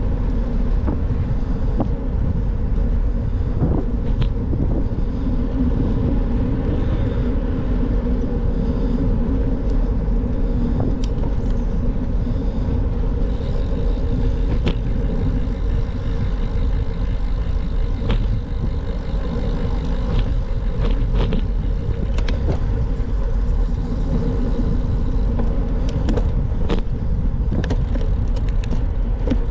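Steady rumble of a bicycle in motion, its tyres rolling on the road, with scattered short clicks and knocks, more of them in the second half.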